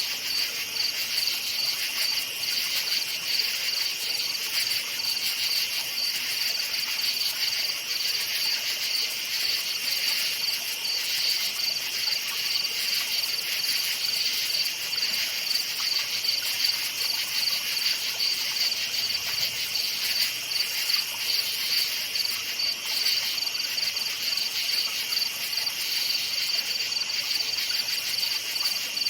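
Crickets chirping in a steady, continuous chorus of rapid high-pitched pulses, with no pauses or changes.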